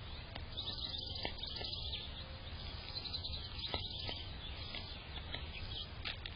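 Small birds chirping in many short, high notes, with a few sharp clicks, over a steady low hum.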